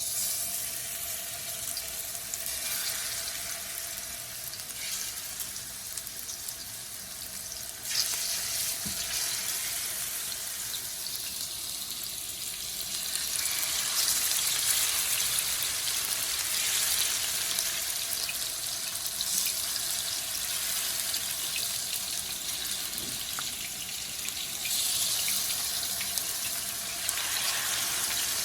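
Chicken pieces frying in hot corn oil in a pan, a steady crackling sizzle that grows louder in steps about 8, 13 and 25 seconds in.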